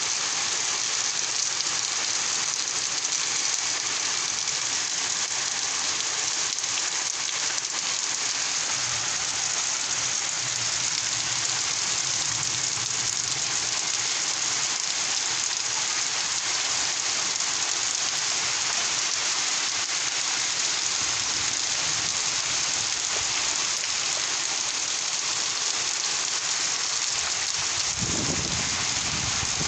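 Steady rain pouring down on surfaces, an even dense hiss of drops. A low rumble comes in near the end.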